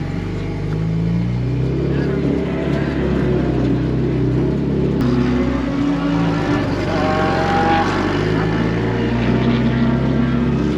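Vehicle engine running, its pitch rising and falling as it is driven.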